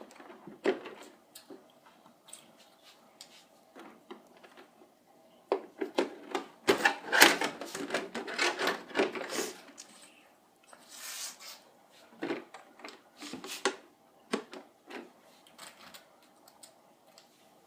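Hands working on a plastic RC truck chassis: irregular clicks, taps and rattles of parts and screws being handled, with a dense stretch of rattling clatter in the middle and a short scraping rustle after it.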